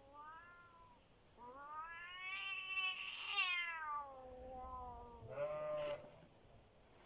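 Domestic cats yowling at each other in a standoff between a female cat and a tomcat. A short rising yowl comes first, then a long drawn-out yowl that climbs and falls away, and near the end a shorter, harsher yowl.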